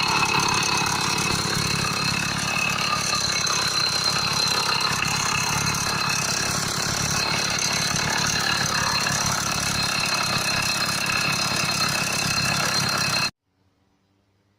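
80cc two-stroke motorized bicycle engine running steadily at idle. The sound cuts off abruptly about a second before the end.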